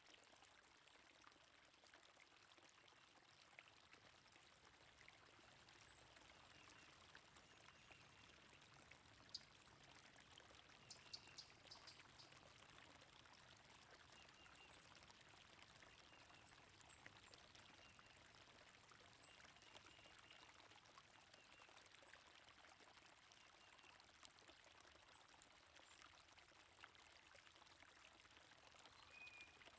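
Faint, steady rush of flowing stream water, with short high bird chirps scattered through it.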